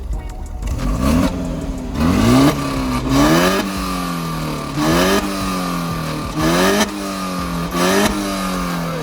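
A car engine being revved in short blips, about six times, each rising quickly in pitch and falling back slowly toward idle.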